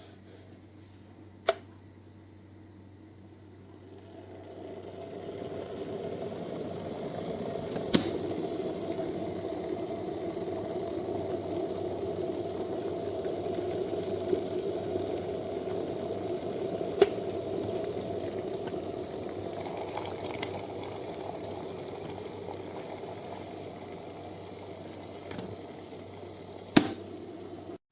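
COSORI 1.7 L stainless steel electric kettle heating water: a rumbling hiss builds up over a couple of seconds, holds steady, then slowly eases off. A few sharp clicks stand out along the way.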